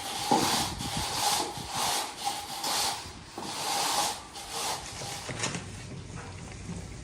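Repeated scraping strokes from floor-tiling work, a little over one a second, with a faint steady tone under them that stops about five seconds in.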